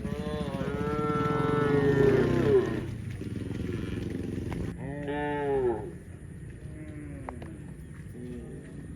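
Cow mooing: one long moo lasting nearly three seconds, a shorter, loud moo about five seconds in, then two fainter short moos near the end.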